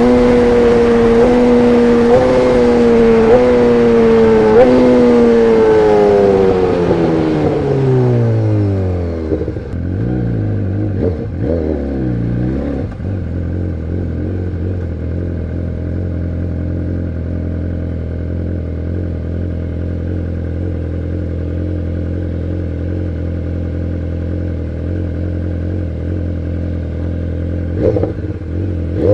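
BMW S1000RR inline-four with an Arrow Pro exhaust, running at high revs with small steps in pitch. The revs then fall away over several seconds, there are a few short throttle blips, and the engine settles into a steady, deep idle. A brief blip of the throttle comes just before the end.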